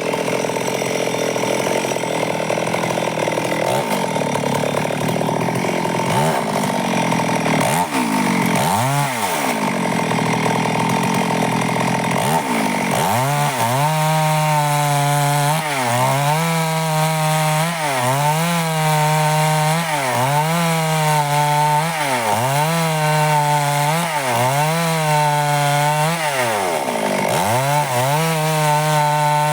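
Stihl chainsaw ripping lengthwise through a log to cut boards, running at high revs throughout. In the second half the engine pitch dips briefly and recovers about every second and a half as the bar bites into the wood under load.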